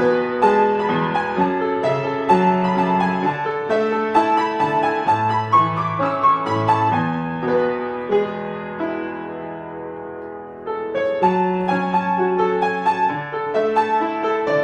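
Solo piano playing a piece with a bass line under a melody, easing off to a softer, sparser passage near the middle before coming back fuller.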